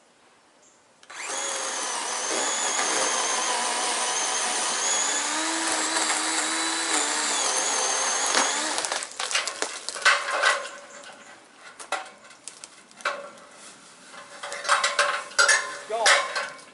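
Chainsaw starting suddenly about a second in and running at speed for about seven seconds, cutting into a large tree limb, then cutting off into a string of short, uneven bursts.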